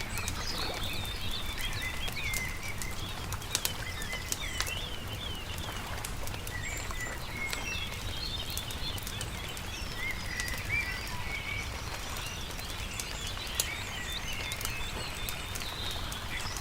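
Small birds chirping and twittering in quick, repeated short notes over a crackling campfire with occasional sharp pops, and a steady low rumble underneath.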